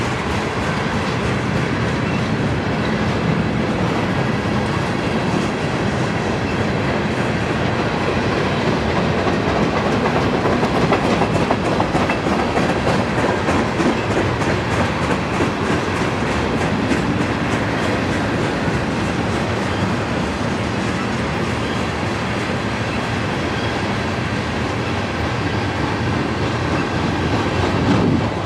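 Freight train cars rolling past: a steady rumble and clatter of steel wheels on the rails, with a dense run of clicks as the wheels cross the rail joints.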